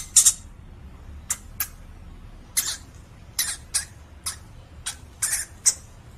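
A small animal's sound effect: a run of short, high-pitched squeaks, about a dozen, often in quick pairs, spaced unevenly.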